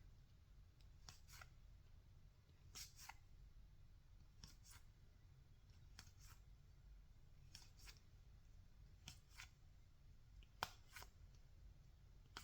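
Baseball trading cards being flicked off a stack one at a time, each card making a faint double swish, about one card every second and a half.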